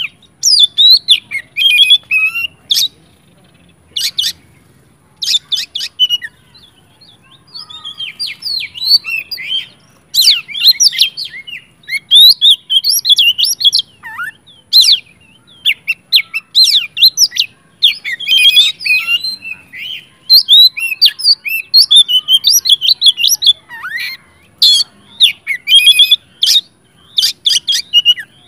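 Oriental magpie-robin (kacer) singing loud, agitated territorial song: a fast, varied string of sharp whistles and chirps in dense phrases, broken by short pauses.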